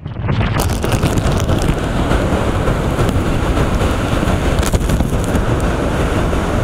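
Typhoon-force wind blowing hard across the microphone: a loud, steady rush of noise with a heavy low rumble that cuts off suddenly at the end.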